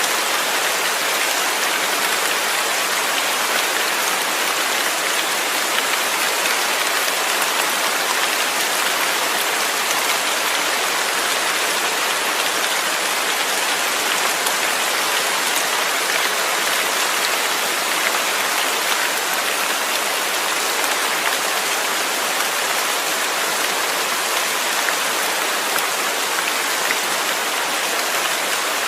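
Steady rain falling on a surface, a continuous even hiss with many fine drop patters and no change in intensity.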